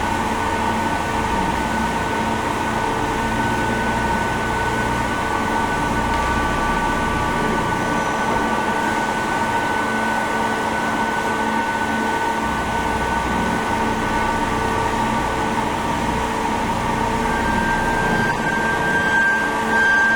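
Junghental DK 1400 CNC vertical turret lathe running: a steady mechanical hum from its motors and pumps, with several whining tones and a faint pulsing underneath. A higher whine comes in about three-quarters of the way through.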